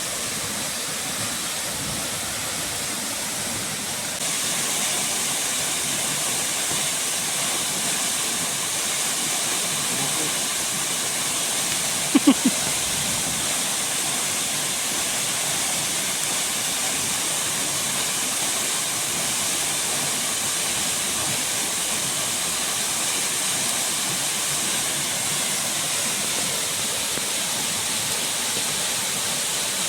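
Steady rush of falling water from the waterfall and heavy rain, growing a little louder about four seconds in. About twelve seconds in, a short pitched sound comes twice in quick succession.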